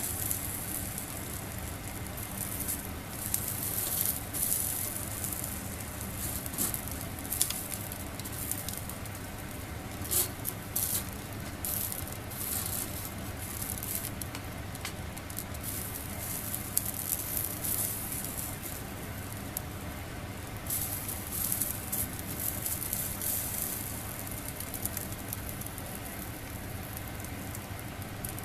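Food sizzling on a grill over a small fire, crackling and spitting in irregular bursts over a steady low hum.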